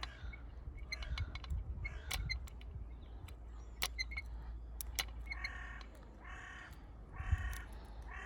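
Small sharp metallic clicks of lock picks and a tension tool working in a padlock. Then a large bird calls four times, about a second apart, over low wind rumble on the microphone.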